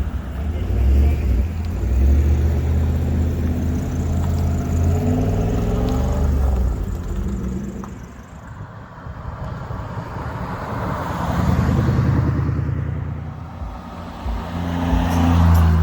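Motor vehicle engines running at low speed, with one engine rising in pitch about five seconds in, a swell of passing vehicle noise around twelve seconds in, and another engine near the end.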